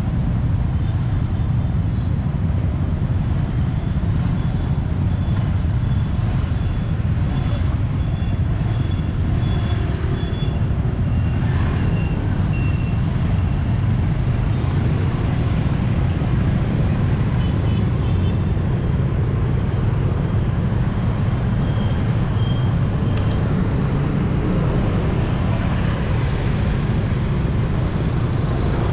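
Busy city street traffic, motorbikes and cars, passing steadily around a moving bicycle, heard as a continuous low rumble.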